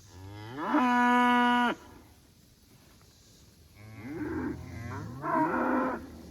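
Cattle mooing: one long, loud moo about a second in that rises in pitch and then holds steady, followed by two shorter, rougher moos in the second half.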